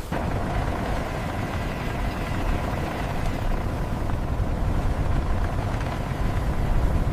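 Helicopter rotor and turbine running steadily: a dense low rumble with a fluttering beat and a faint steady whine.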